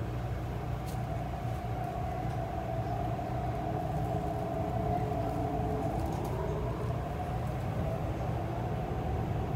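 Interior of an MTR East Rail line R-train electric multiple unit running: a steady low rumble, with a motor whine that wavers and shifts in pitch.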